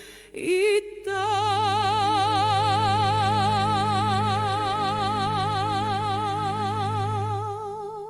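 Closing note of a song: after a short rising slide, a singer holds one long high note with wide vibrato over a sustained low chord, fading out near the end.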